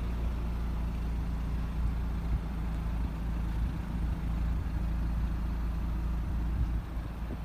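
2013 BMW 328i's 2.0-litre turbocharged four-cylinder engine idling steadily, heard at the rear by the exhaust tips.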